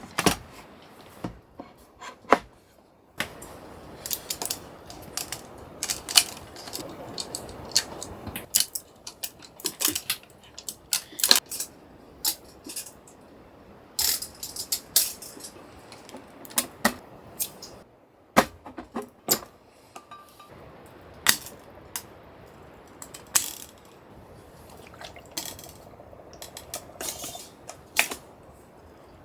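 Irregular clicks and clinks of small hard objects being handled, some with a short metallic ring, over a faint steady background hiss.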